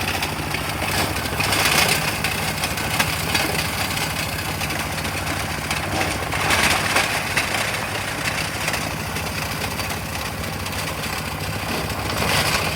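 Boulder stone-crushing machine running: a steady low mechanical hum under a constant gritty clatter, which swells louder three times, about two, seven and twelve seconds in.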